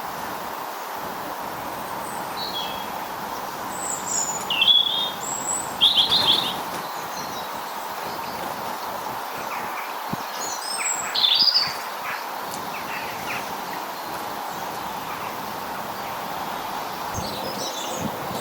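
Small garden birds giving short, high chirps in a few brief clusters, over a steady background noise.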